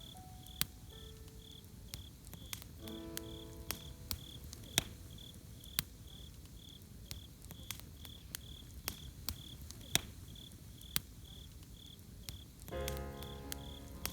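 Campfire crackling with irregular sharp pops over a low hiss, while a cricket chirps steadily about twice a second. A few soft musical notes sound about three seconds in and again near the end.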